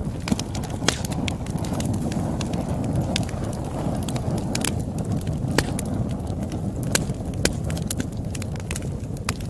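Campfire crackling: irregular sharp pops and snaps of burning wood, several a second, over a steady low rush of flames.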